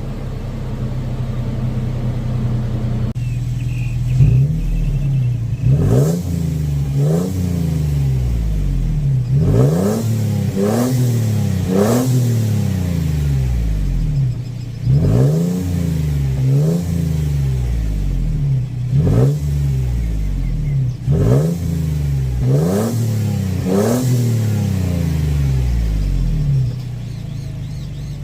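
Toyota FJ Cruiser's 4.0-litre V6 through a newly fitted TRD exhaust, idling, then revved in a long run of quick throttle blips, each a rise and fall in pitch, before settling back to a steady idle near the end.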